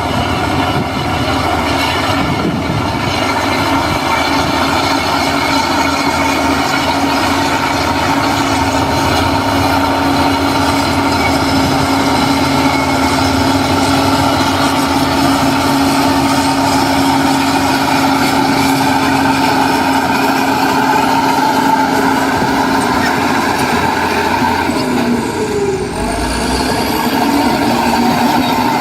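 Heavy diesel construction machinery (bulldozer or dump truck) running steadily, with a constant engine hum and a steady whining tone that slides down in pitch about 25 seconds in.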